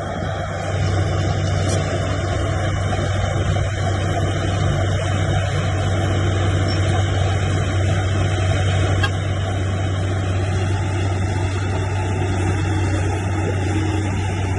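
Heavy diesel engine of earthwork machinery running steadily with a deep, even hum, easing slightly in loudness about nine seconds in.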